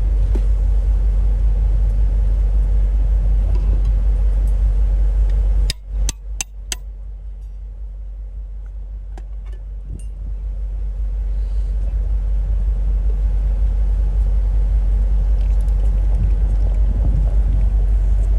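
Wind rumbling on the microphone outdoors. About six seconds in come a few sharp clicks, and the rumble drops off for several seconds before building back up.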